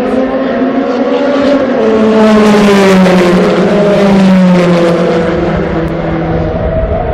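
Group C prototype race car engine at high revs, getting louder to a peak in the middle and then fading, its pitch falling steadily throughout.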